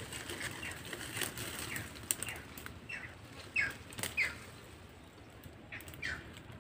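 A bird repeatedly giving short, falling calls, about nine in all at uneven spacing, over leaves and twigs rustling and snapping as a person creeps and crouches in dense undergrowth.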